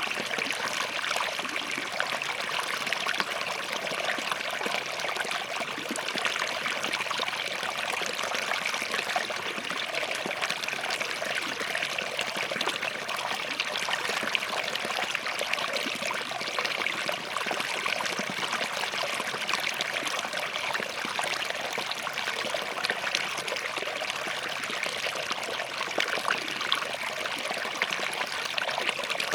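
Small forest stream running over rocks, a steady rush of water with fine trickling and splashing.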